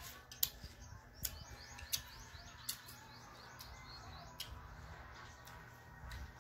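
A small bird chirping: a quick run of short, high chirps about a second in, lasting a couple of seconds. A few sharp clicks stand out louder, over a faint background hum.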